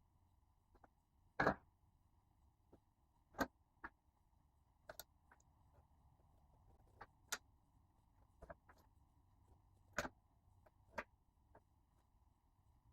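Wood fire of broken-up pallet wood crackling, with sharp pops at irregular intervals, roughly one every second.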